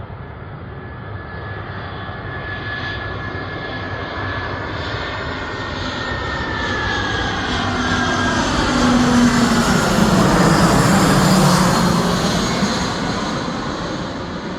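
Airliner passing low overhead: its engine noise grows steadily louder, peaks about ten to twelve seconds in, then fades, while a high engine whine slides down in pitch as it goes by.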